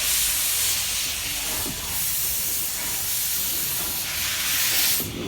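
Steam hissing loudly from the Bagnall steam locomotive "Princess", cutting off suddenly near the end, over a low rumble.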